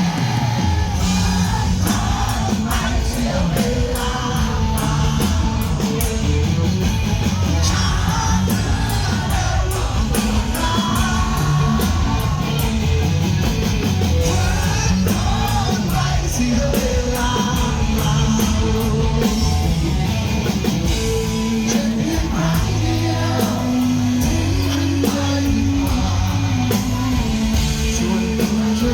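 Rock song with a singer's voice over a band, drums hitting at a steady beat.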